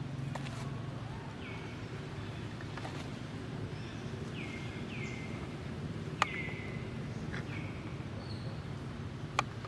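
Several short, high chirping animal calls, each falling in pitch, over a steady low background rumble, with two sharp clicks, the first about six seconds in and the second near the end.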